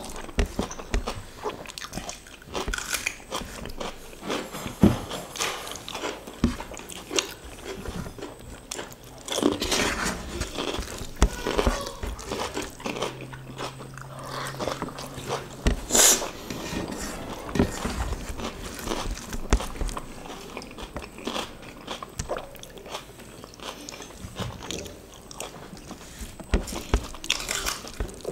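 Close-miked eating: two people chewing and crunching, with crisp bites into raw cucumber and fingers working rice on a metal tray.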